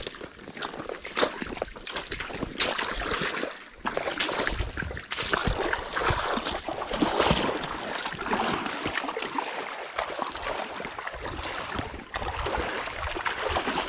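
Footsteps wading through shallow swamp water about eight inches deep, an irregular run of sloshing and splashing strides.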